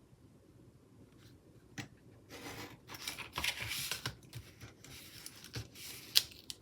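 Scissors cutting through a sticker sheet to trim off the excess. It starts about two seconds in as a run of papery cutting noise, followed by a few sharp blade clicks near the end.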